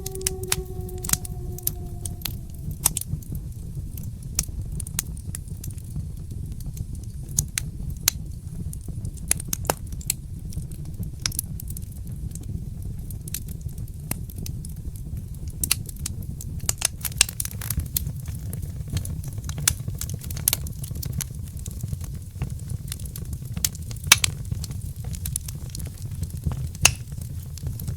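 Wood fire crackling in a fireplace: irregular sharp pops and snaps over a steady low rumble of the flames. In the first two seconds a soft pitched tone slides slightly down and fades out.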